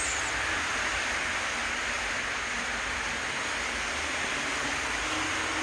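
Steady background hiss of room noise, even and unchanging, with no distinct events.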